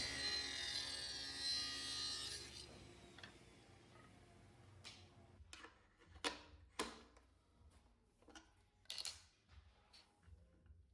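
A power tool in a woodworking shop running steadily, then switched off and winding down over a second or two. Scattered sharp knocks and clicks follow, from wood and tools being handled.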